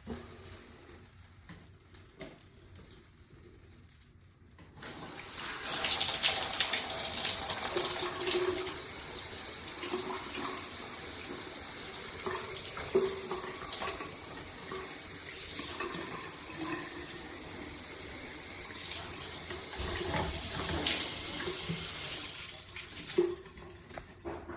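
Shower turned on about five seconds in, water spraying steadily from the shower head, then shut off near the end. A few faint clicks and drips come before the water starts.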